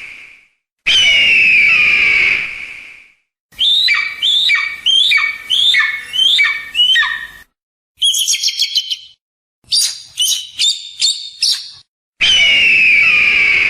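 Bird-of-prey calls: a long, harsh, falling scream, then a run of about eight short down-slurred cries, two quick bursts of rapid high chips, and the long falling scream again near the end.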